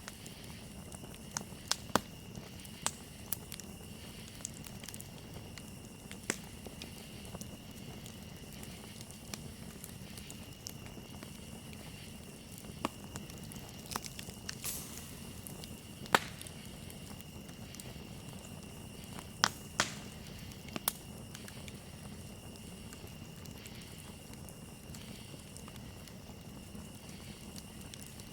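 Campfire crackling, with sharp pops and snaps at irregular intervals over a low steady rumble of the burning wood, a few louder snaps around the middle. Crickets chirp steadily and high-pitched in the background.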